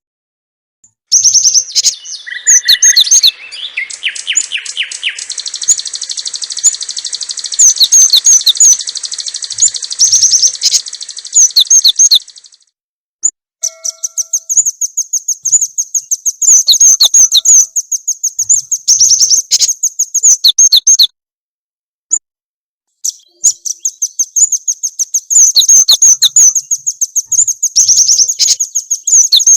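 Recorded small songbird song, the kind played as a lure to set caged songbirds singing: rapid, high-pitched chirping trills, very loud, in three long bouts with short breaks about twelve and twenty-one seconds in.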